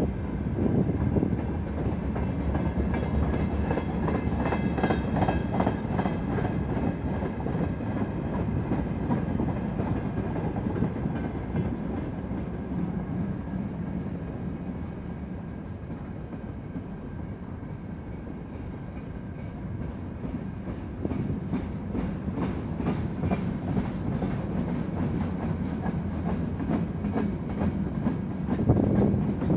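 Freight train wagons rolling past, their wheels clacking over rail joints over a continuous rumble. It eases off for a few seconds in the middle, then grows louder again.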